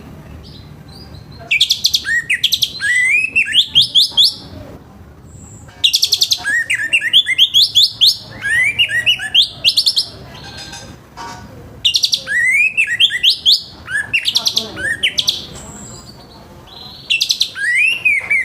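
Orange-headed thrush singing its full, loud song: four bursts of fast, varied whistled phrases with quick rising and falling notes, each burst a few seconds long with short pauses between.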